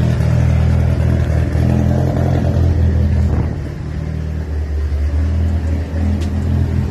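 Turbocharged 2.4-litre four-cylinder engine of a built Dodge Neon SRT-4 running steadily at idle, just started on its new fuel pump and return-line system and picking up fuel with under a quarter tank. It is a little quieter from about halfway through.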